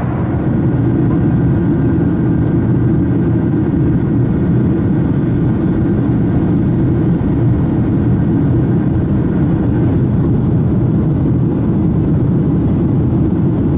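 Steady cabin noise inside a Boeing 737-600: its CFM56 jet engines running with a deep, even rumble and a faint high whine over it.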